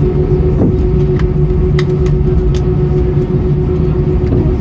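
Cabin noise inside an Airbus A320 on the ground after landing: a loud, steady low rumble with a constant hum, and a few faint clicks from the cabin.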